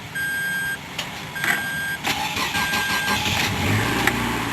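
A car's warning chime beeps three times, then a 2008 Toyota Corolla's four-cylinder engine is cold started: the starter cranks and the engine catches about three and a half seconds in and settles into a steady idle.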